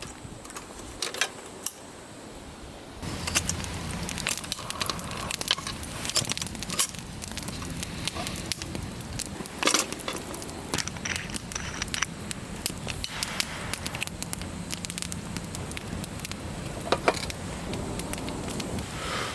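Wood fire crackling, with many scattered sharp pops of burning firewood. It grows louder about three seconds in.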